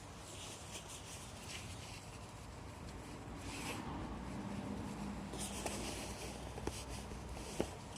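Wood-pellet fire in a Solo Stove fire pit crackling, with scattered sharp pops over a low rush that swells in the middle.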